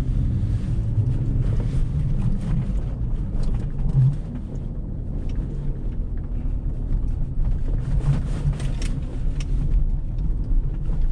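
A car driving on a snowy road, heard from inside: a steady low engine and road rumble with faint crackles from the tyres.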